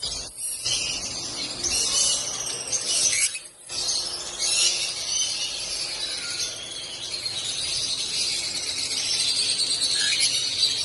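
African lovebirds chattering and chirping without pause in a high-pitched, busy twitter, with a short break about three and a half seconds in.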